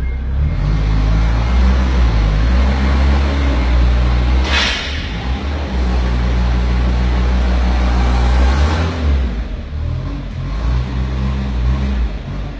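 Forklift engine running under load, loud and steady, easing off about nine seconds in, with a brief hiss about four and a half seconds in.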